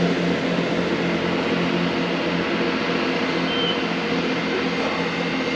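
Diesel passenger train's engine running with a steady hum, slowly easing off.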